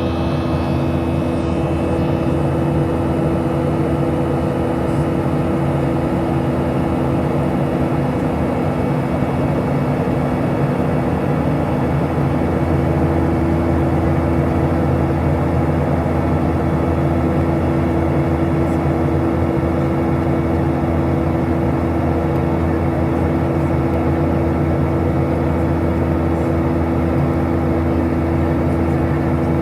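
Boeing 737-700's CFM56-7B jet engines heard inside the cabin: a steady drone with a constant low hum and rumble, level and unchanging.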